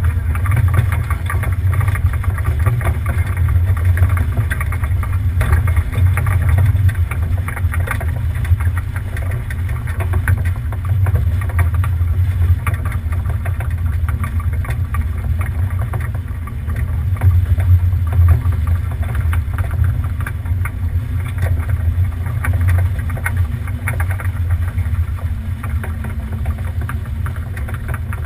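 Steady low rumble of a sailboat underway, with wind and water noise and no distinct events.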